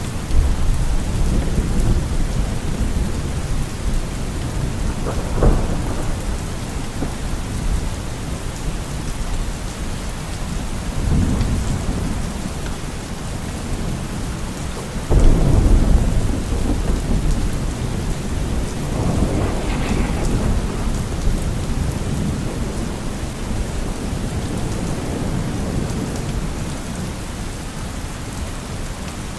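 Steady rain with several low rolls of thunder, the loudest beginning about halfway through.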